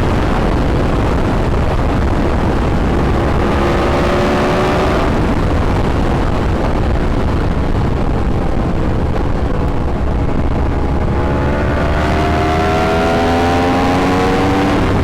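Yamaha YZF-R1 sport bike's inline-four engine under way, with heavy wind rumble on the microphone. The engine note climbs slowly as the bike accelerates, once about three seconds in and again from about eleven seconds on.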